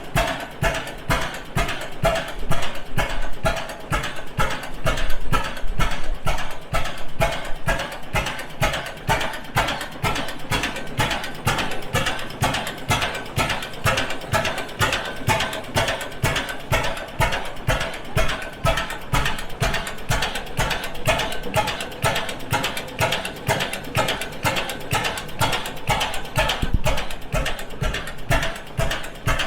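International Harvester 25 horsepower Mogul single-cylinder portable engine running, its valve gear and mechanism giving a steady, even rhythmic clatter of sharp clicks.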